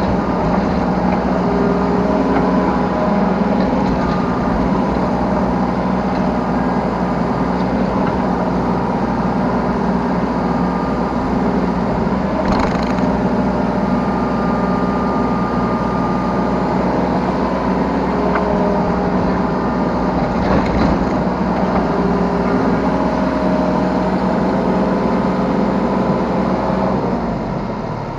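Yanmar B3 Sigma 3-tonne mini excavator's diesel engine running steadily under working load, with a hydraulic whine that changes pitch as the controls are worked. The engine eases off near the end.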